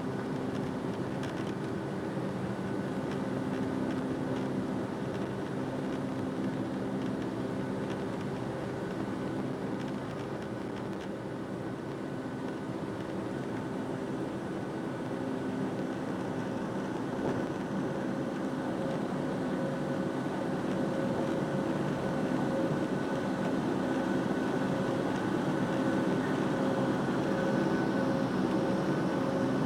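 Boeing 757 jet engines running, a steady hum and whine that grows gradually louder, with a new tone coming in about halfway.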